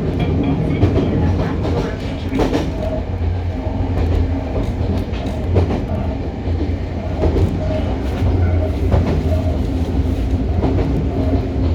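Hokuriku Railroad 03-series train heard from inside a trailer car with no traction motors, running along the line. There is a steady rumble of wheels on rails, with a rail-joint clack every second or two.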